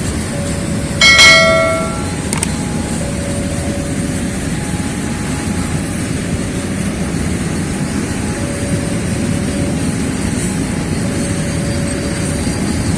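A long train rolling past with a steady low rumble. About a second in there is one loud metallic clang that rings on briefly, with faint squealing tones coming and going.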